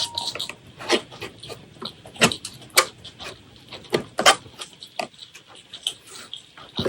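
Close-miked eating sounds: chewing and lip smacks in an irregular run of sharp clicks, the loudest about one, two and four seconds in.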